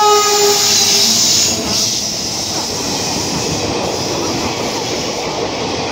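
A WAP-7 electric locomotive hauling a passenger express passes with its horn sounding, the horn fading out within the first second; then the passenger coaches pass, with wheels rattling on the rails.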